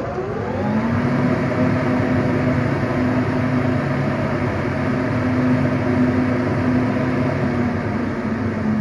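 New York Blower 3 hp three-phase steel exhaust blower coming up to speed just after switch-on, its tones rising through about the first second. It then runs steadily with an even hum and a rush of moving air.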